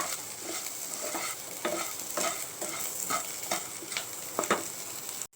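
Small onions frying in coconut oil, sizzling steadily, while a spoon stirs and scrapes the pan in short strokes, about two to three a second.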